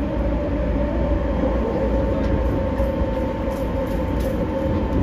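JR 209 series 500-subseries electric commuter train running at a steady pace, heard from inside the passenger car: a steady low rumble of wheels on rail with an even, unchanging whine above it.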